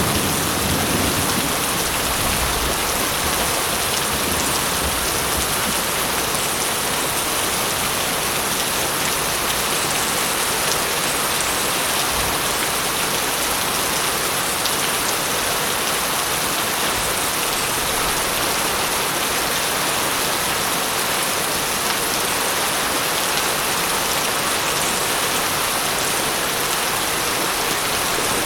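Steady heavy rain, a dense even hiss. A low thunder rumble dies away in the first second or so.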